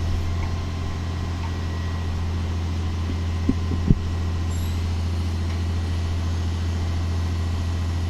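A truck engine running steadily at idle, a constant low drone, with two short knocks about three and a half and four seconds in.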